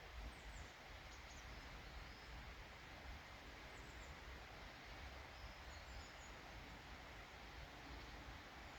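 Near-silent woodland ambience: a faint steady low background with scattered short, high bird chirps.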